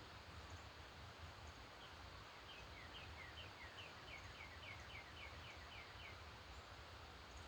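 A songbird singing faintly: a run of a dozen or so quick two-note phrases, about three a second, for about four seconds starting a couple of seconds in, over a steady low background rumble.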